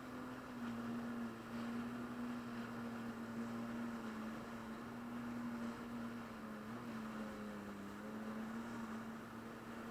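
Jet ski engine running at a steady speed, heard muffled as a constant hum whose pitch sags slightly and recovers about three-quarters of the way through.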